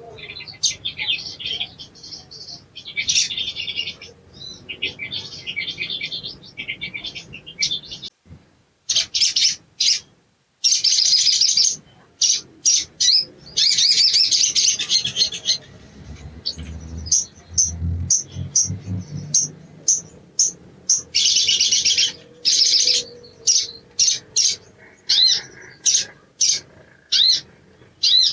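Sogon (sogok ontong) sunbird singing fast, high twittering chirps and trills, in rapid short bursts broken by longer chattering runs.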